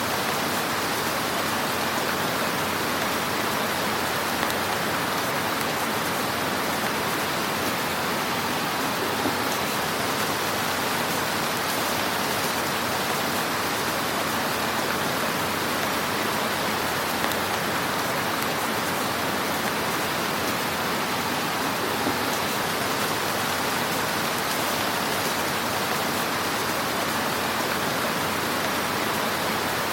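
Wood fire in a fireplace burning with a steady dense crackle and hiss, with a few slightly louder pops.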